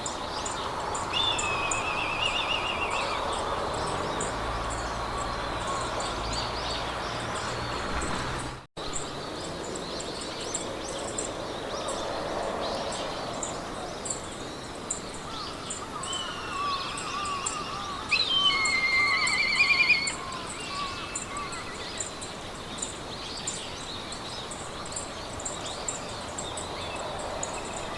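Meadow ambience: wild songbirds singing trilled phrases, loudest about two-thirds of the way through, over the steady hush of wind through grass and a regular high-pitched ticking. The sound drops out briefly about nine seconds in.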